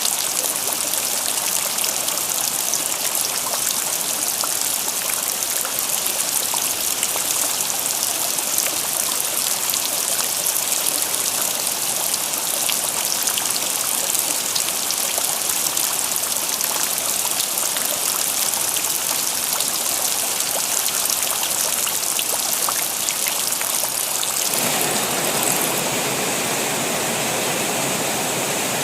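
Rain falling, with the patter of drops over rainwater running and flowing. About 24 seconds in, the sound changes suddenly to a fuller, steadier rush of water.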